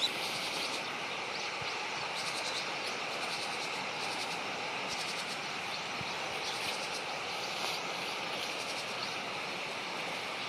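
Steady outdoor background noise, an even hiss with faint high flickers, and a single short click right at the start.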